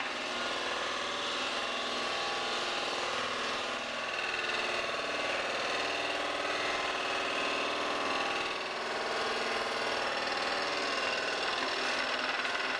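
Scroll saw running steadily as its blade cuts through hard oak, a fast even reciprocating buzz that eases slightly twice as the cut goes on.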